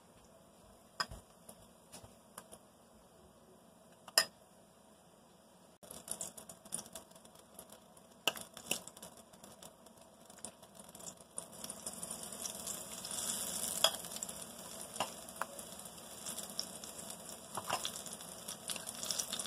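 Battered long green chillies frying in hot oil in a pan: a crackling sizzle that starts suddenly about six seconds in and grows louder as more chillies go in. Before it, a few sharp clicks, one loud one about four seconds in.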